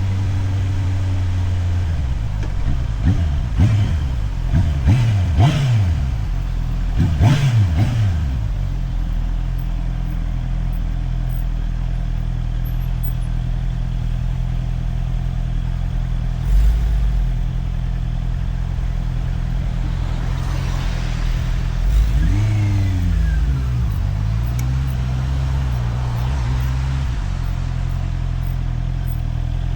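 Motorcycle engine heard from the rider's helmet camera, running steadily with its pitch rising and falling several times in quick succession over the first few seconds, then steady, then rising and falling again a little past the middle.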